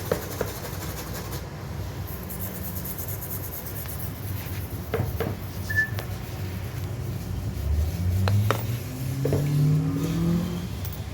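Car engine idling, then revved up twice near the end, its pitch rising each time; a few sharp clicks along the way.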